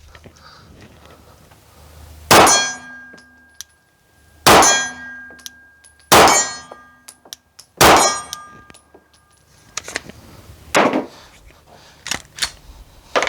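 Four 9mm pistol shots from a Glock 19X, about two seconds apart, each followed by the ringing of a steel target plate being hit. Near the end come a few softer sharp clacks of the pistol being handled.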